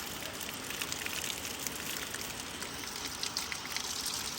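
Steady, faint rush of running water, with scattered light ticks.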